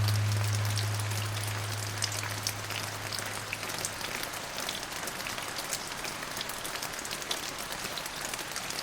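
Steady rain falling on a surface, a dense hiss with scattered sharp drop ticks. A low held music note fades away over the first few seconds, leaving only the rain.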